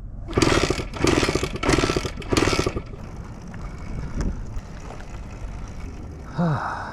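Honda MB5's small two-stroke engine being turned over four times in quick succession without catching. It will not start because of a clogged carburettor pilot jet.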